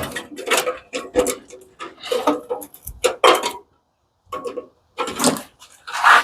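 Metal parts of an industrial coffee machine clinking and rattling as they are handled during a teardown: a string of short, irregular knocks and clatters, with a brief pause about four seconds in.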